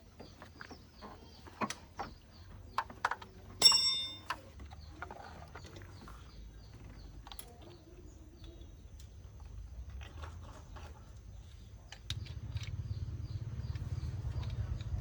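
Light clicks and knocks of tools and parts, with one ringing metal clang about four seconds in. Near the end an engine starts running, a low steady rumble with an even beat that grows louder.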